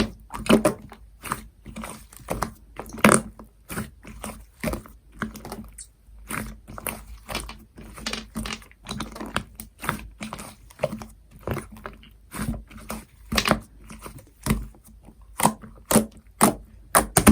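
Jelly slime being squeezed, pressed and stretched by hand, giving irregular sticky clicks and wet pops of trapped air, about two or three a second.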